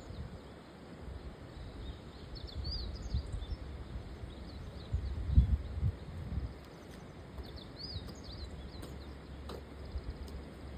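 Outdoor ambience: small birds chirping in short clusters twice, over a steady low rumble that swells briefly about halfway.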